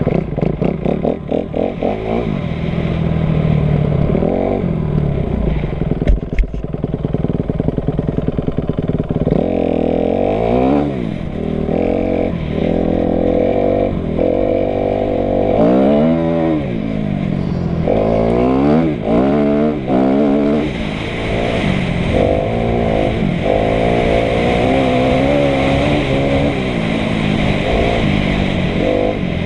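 Kawasaki KX250F dirt bike's single-cylinder four-stroke engine ridden hard, its pitch climbing and dropping again and again as the throttle opens and closes through the gears. There are a few sharp knocks about six seconds in.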